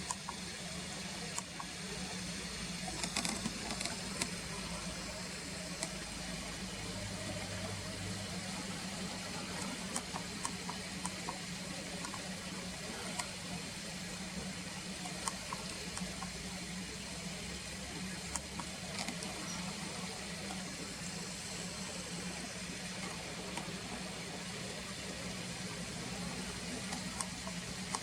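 Steady outdoor background noise: an even hiss with a low steady hum under it, and scattered faint sharp ticks.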